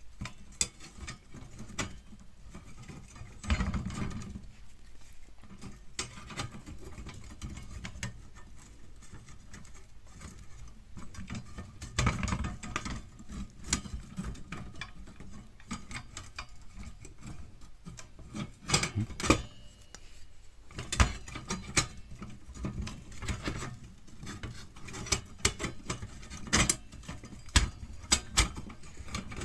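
Metal fire pit parts being handled and fitted together: irregular clinks, taps and scraping as the pieces are slotted into place, with louder knocks now and then.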